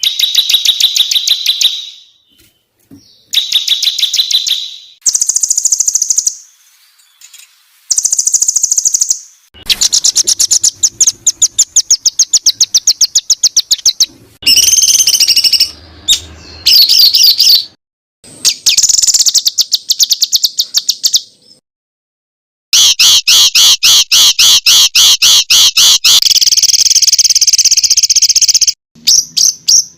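Songbird masteran recording: phrases of rapid, high-pitched repeated notes and fast trills ('tembakan rapat'), several notes a second, broken by short pauses.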